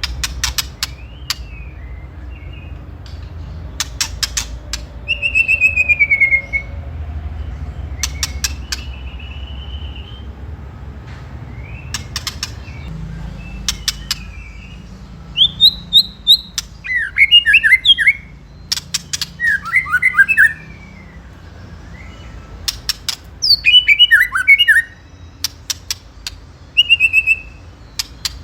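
White-rumped shama giving harsh rattling 'ketrekan' calls: bursts of rapid dry clicks every few seconds. Between them come short whistled and falling phrases, the agitated calling used as a lure to provoke another shama into answering.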